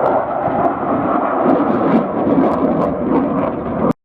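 Dassault Rafale's twin turbofan jet engines roaring steadily during a display. The sound cuts off abruptly near the end.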